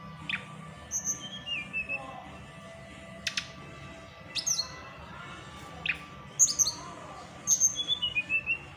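Tledekan gunung, a small Indonesian flycatcher, chattering: sharp falling whistles and short high trills, spaced irregularly, with a few stepped falling notes near the start and again near the end. It is a lure recording meant to set silent caged birds singing, with a faint steady hum beneath it.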